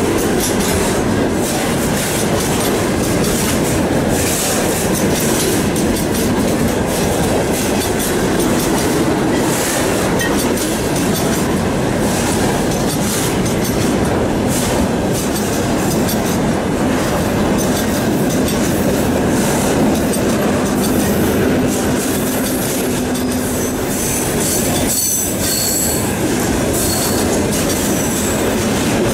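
Freight train of enclosed car-carrier wagons running past at speed: steady wheel-on-rail rumble with clicking over the rail joints. Near the end, high-pitched squealing tones join in as an ER2T electric multiple unit comes past on another track.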